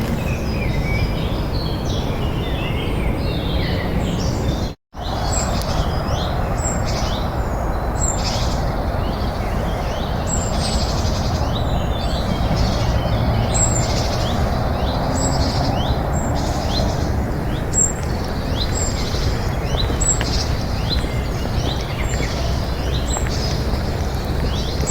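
Small birds chirping repeatedly in many short calls over a steady low background rumble, broken by a sudden brief silence about five seconds in.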